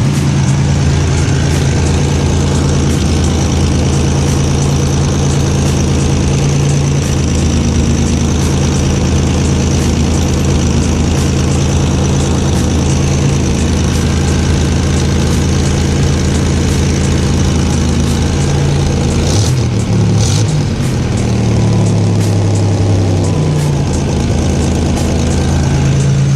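Buick Grand National's turbocharged 3.8-litre V6 idling steadily, its speed wavering briefly about three-quarters of the way through, with the exhaust manifold flange still leaking.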